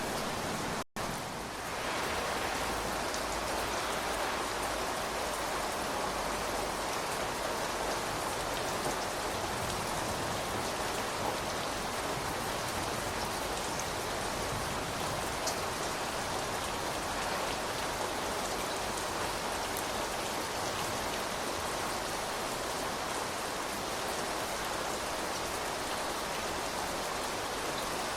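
Steady rain falling, an even hiss of many drops, with a split-second cut in the sound about a second in.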